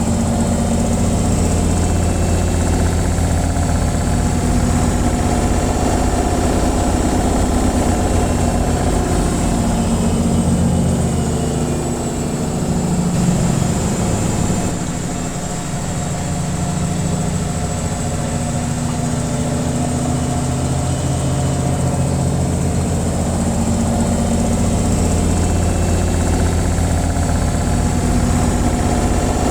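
Washing machine on its spin cycle: a steady, loud mechanical hum with a low rumble and vibration, easing slightly a little under halfway through and then building back.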